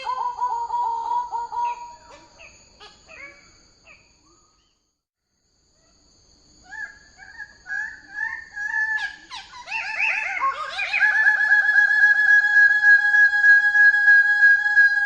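A bird of paradise calling: a series of rapid, stuttering notes that fade away, a pause of about a second and a half, then calls that build up again into one long, steady high note.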